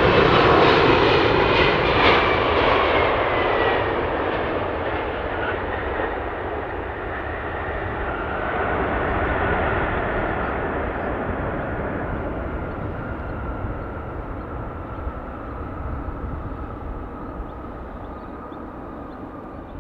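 Boeing 747 freighter's jet engines going by on landing, a loud rumble with a whine that falls in pitch in the first few seconds, then fading away with a brief swell about nine seconds in.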